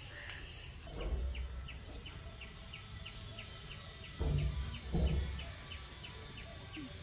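A bird chirping the same short note over and over, about four times a second, against outdoor background noise. Three brief low rumbles are the loudest sounds: one about a second in and two around four to five seconds in.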